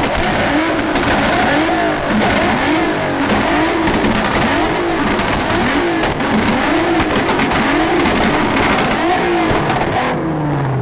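Car engine held on a two-step rev limiter, popping and crackling loudly, its pitch swelling and dipping about once a second; it cuts off about ten seconds in, and the revs fall away.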